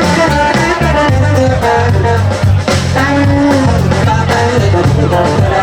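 Live band playing an upbeat song with a steady beat, bass and melody lines, and some singing.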